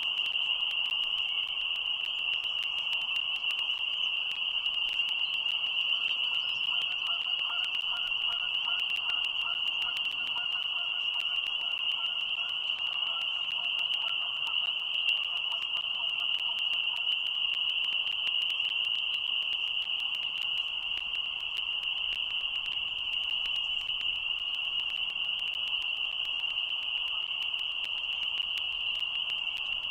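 A steady, high-pitched ringing drone that never breaks, with a rapid pulsing trill lower in pitch from about seven to seventeen seconds in.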